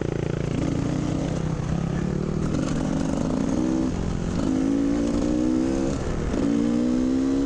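Dirt bike engine accelerating through the gears. Its note rises in each gear and drops back at two upshifts, about four and six seconds in.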